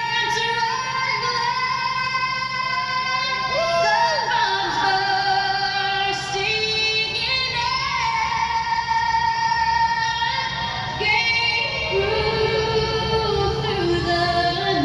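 A woman singing with musical accompaniment, holding long notes with vibrato and sliding between pitches.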